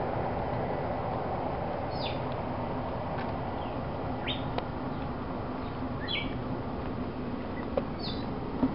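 Birds chirping in forest, with short high chirps that slide downward about every two seconds over a steady background hiss. A couple of faint knocks come near the end.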